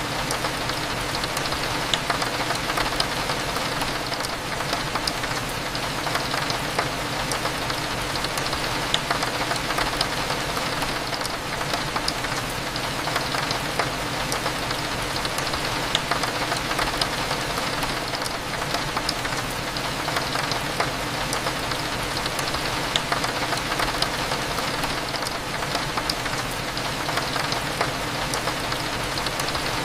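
Steady rain falling on a window glass, thick with small drop ticks, over a constant low hum.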